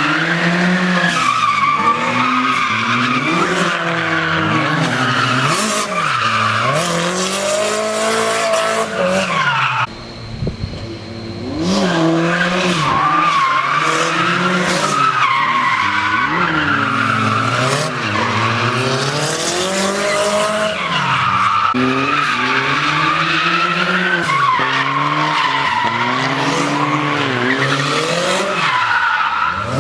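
2JZ-swapped Nissan 240SX's straight-six engine running through a full straight-piped exhaust, its revs swinging up and down again and again as the car drifts, with tyres squealing. About ten seconds in the sound briefly drops off before the revs climb again.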